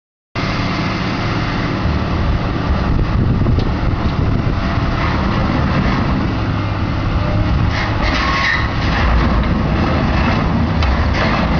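Excavator's diesel engine running under load, starting abruptly as the clip cuts in, with scattered knocks and clanks in the second half.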